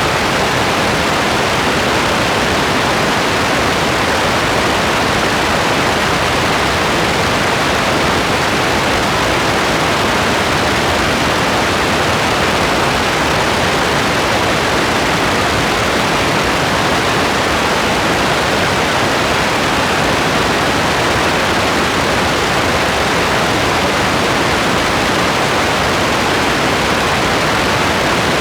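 Steady rain, a constant even hiss with no separate drops, thunder or changes standing out.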